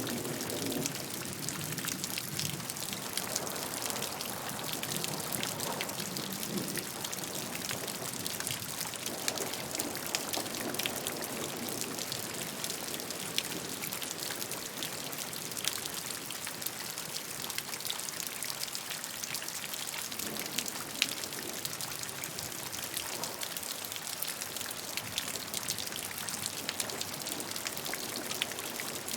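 Steady rain falling: an even hiss with a dense patter of individual drops, a few sharper drops standing out.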